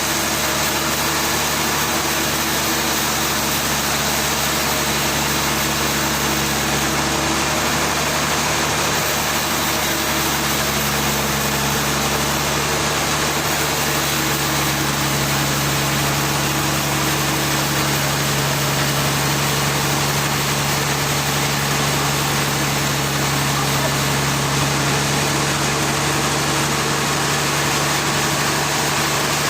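An engine or motor running steadily at a constant speed, a continuous low hum over a noisy wash, with no cuts, impacts or changes in pitch.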